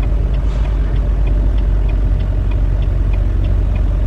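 Semi-truck diesel engine running steadily with a low rumble, heard from inside the cab, over an even light ticking about three times a second.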